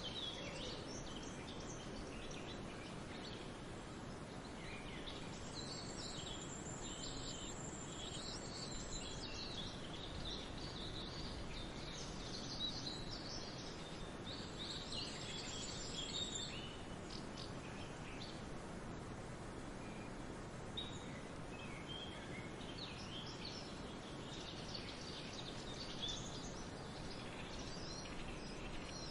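Small birds chirping and trilling on and off over a steady outdoor hiss.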